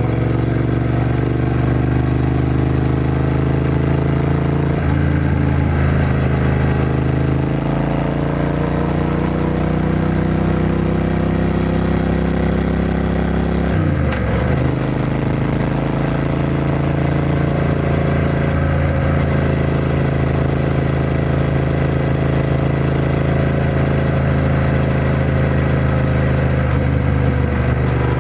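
Triumph Bonneville T120's 1200 cc parallel-twin engine running under way from the rider's position, its note slowly rising and falling with the throttle. About fourteen seconds in the pitch drops sharply and climbs again.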